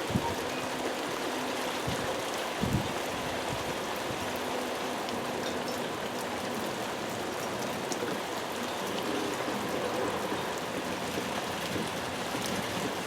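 Heavy rain pouring steadily, with a couple of brief low thumps in the first three seconds.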